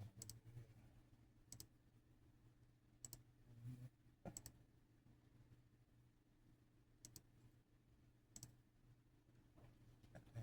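Near silence with a few faint, sharp clicks scattered irregularly through it, over a low steady hum.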